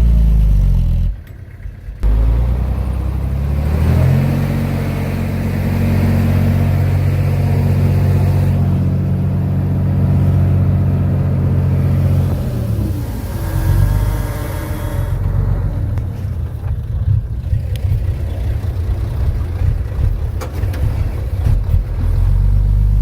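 Heavy earthmoving machine's diesel engine running, with a brief drop about a second in. It revs up about four seconds in and holds a steady pitch, then falls back near the middle to an uneven rumble with scattered knocks.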